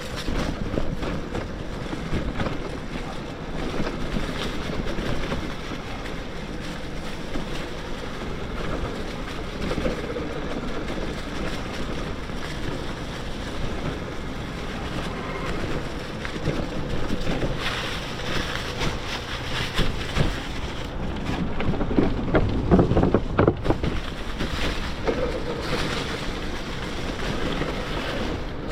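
Wind buffeting the microphone and the rattle of a mountain bike rolling over a dirt trail on a BBSHD mid-drive electric bike, with a faint steady tone underneath. It gets rougher and louder for a few seconds past the middle, and no frame creak stands out.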